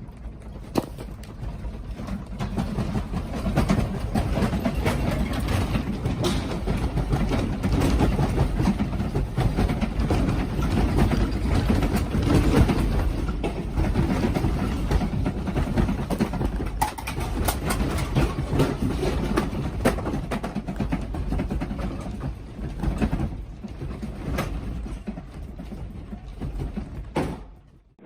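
Earthquake shaking: a continuous low rumble with many small rattles and knocks of loose objects. It cuts off abruptly near the end.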